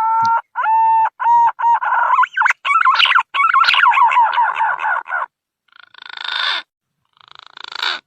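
Green pigeon (punai) song of the kind used as a lure call. A rising whistle leads into a run of short fluting notes and a warbling, falling phrase, then two rasping, growling notes that swell in loudness near the end.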